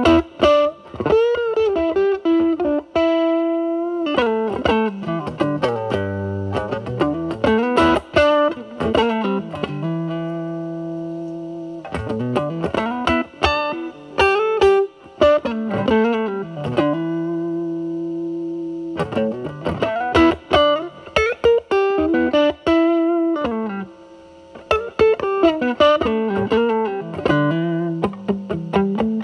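Electric guitar (Telecaster) through a silicon Mosrite Fuzzrite clone fuzz pedal and a Marshall Valvestate's drive channel, with the fuzz cleaned up by rolling back the guitar's volume. It plays a blues-style lead of single notes, with string bends and held, sustained notes and a short pause near the end.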